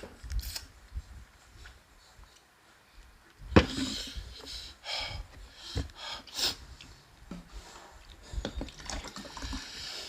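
Noodle soup being eaten close to the microphone: wet slurping and mouth sounds in short bursts, with a few sharp clicks, the loudest about three and a half seconds in.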